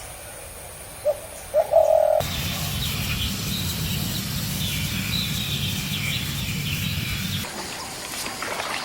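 Birds calling: a short held call about two seconds in, then many small birds chirping high over a low rumbling background. The background cuts off abruptly near the end.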